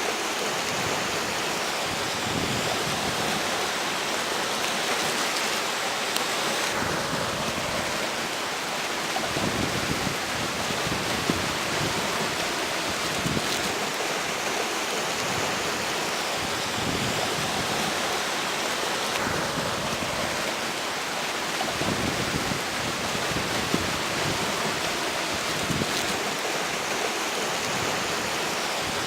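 River water flowing steadily, with strong gusting wind buffeting the microphone in irregular low rumbles.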